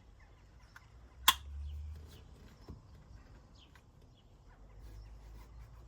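Handling noise from fitting a rear-view camera onto a van: one sharp click about a second in, then a low rumble and a few light taps.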